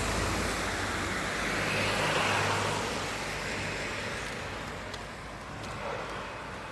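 Road noise from a car driving on a street: a steady engine hum under a wash of tyre and traffic noise that swells about two seconds in and then fades away.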